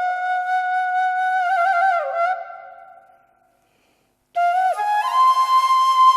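Background music: a solo flute holding long notes with quick ornamental turns. It fades out about two and a half seconds in, and after a second of silence a new phrase begins and climbs to a higher held note.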